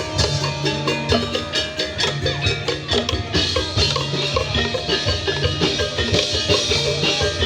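Tongklek ensemble music: fast, steady knocking bamboo percussion over a repeating pitched melody and a low bass line.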